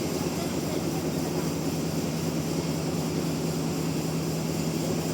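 Sawmill machinery running with a steady, unchanging drone and a constant low hum.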